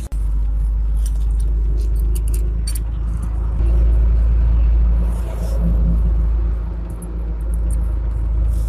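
A steady, loud low rumble of a running engine or machine, swelling slightly a few seconds in, with scattered light metallic clinks.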